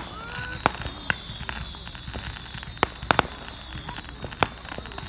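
Fireworks going off: about seven sharp bangs at irregular intervals, two of them close together a little after three seconds in.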